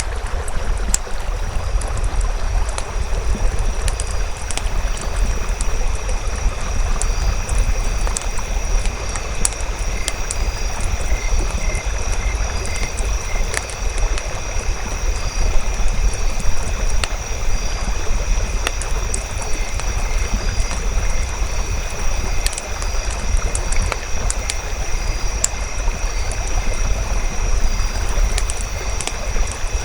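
Campfire burning: a steady crackling rush with frequent short sharp pops over a low rumble, and a faint steady high-pitched tone running underneath.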